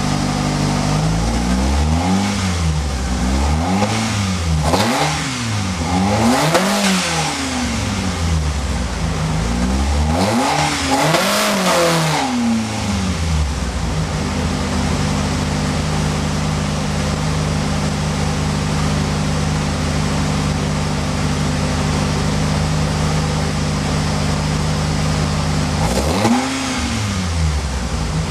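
Race-tuned Alfa Romeo Twin Spark 2.0 16V four-cylinder engine blipped repeatedly, revs rising and falling several times with two bigger revs, then settling to a steady idle about halfway through, with one more quick blip near the end.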